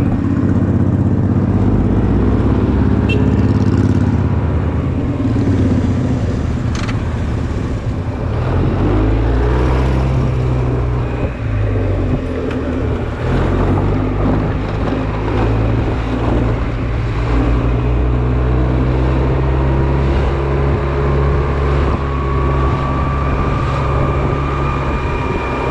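Honda Silver Wing maxi-scooter's engine running under way, heard with road and wind noise on the camera's microphone; the engine note holds steady and shifts pitch a few times as the speed changes.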